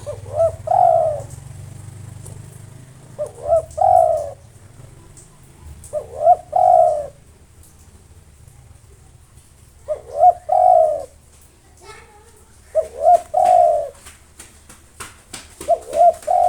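Spotted dove singing its cooing song: six phrases about three seconds apart, each two or three short coos followed by a longer drawn-out coo.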